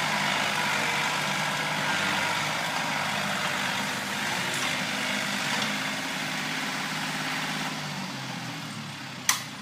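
A John Deere 790 compact tractor's three-cylinder diesel engine running steadily. It gets quieter over the last couple of seconds, and a single sharp click comes near the end.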